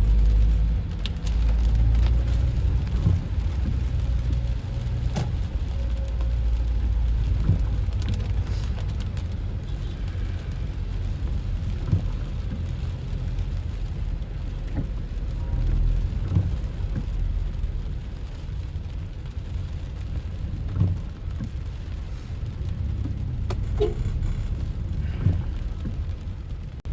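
Rain falling on a car, heard from inside the moving car's cabin over a steady low engine and road rumble, with scattered sharp ticks.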